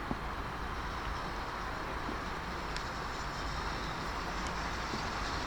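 A train running through the station: a steady rumble and rail noise.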